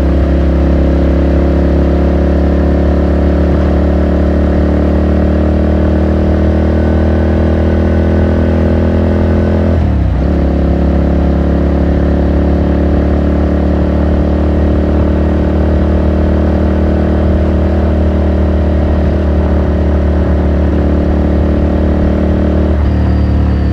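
Ducati Scrambler Sixty2's 399 cc air-cooled L-twin engine running under way, its pitch climbing slowly as the bike gathers speed. The pitch dips briefly about ten seconds in and again near the end, as with gear changes.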